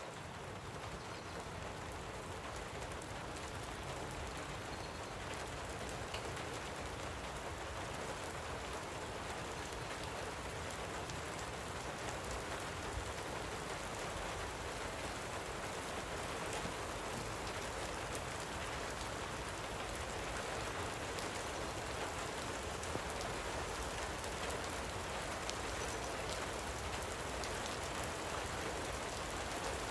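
Steady light rain falling, a dense patter of small drops, growing gradually a little louder.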